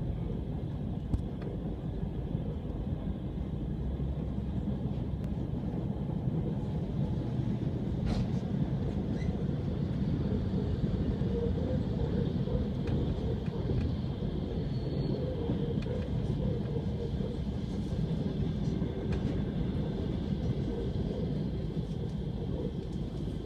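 Steady rumble of an ES2G Lastochka electric train running at speed, heard from inside the passenger car, with a few sharp clicks.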